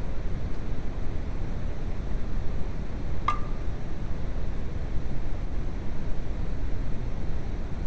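Car engine running with a steady low rumble; a single light metallic clink about three seconds in.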